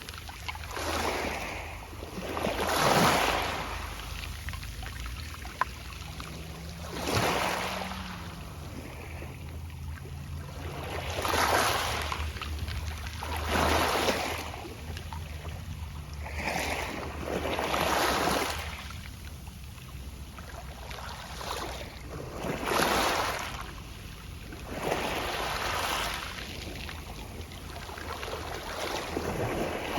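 Small sea waves breaking on a pebble beach. Each wave washes up and draws back with a rustling hiss through the pebbles, about every two to four seconds.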